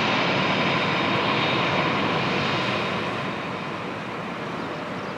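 Jet airliner on approach to land passing by, its engines giving a steady roar with a thin high whine, gradually fading as it moves away.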